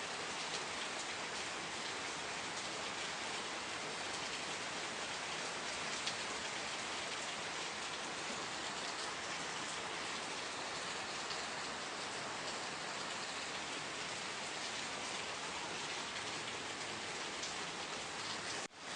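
Steady rain falling, an even hiss with individual drops ticking through it and one sharper drop about six seconds in. The sound cuts out for a split second near the end.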